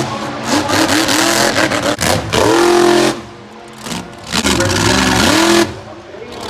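Monster truck engine revving hard, its pitch rising and falling with the throttle. It drops back twice, for about a second around three seconds in and again near the end, then comes back on.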